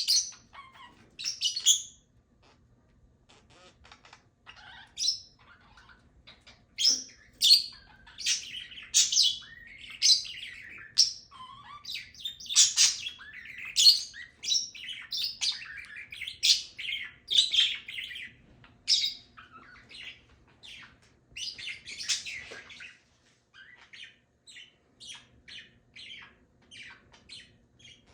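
Pet parrots chirping and squawking in a stream of short, sharp, high-pitched calls, sparse at first, thick and loud through the middle, then thinning to quicker, fainter chirps near the end.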